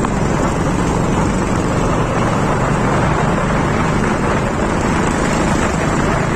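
TVS Apache RTR 200 4V motorcycle's single-cylinder engine running steadily while riding along, with wind rushing over the microphone.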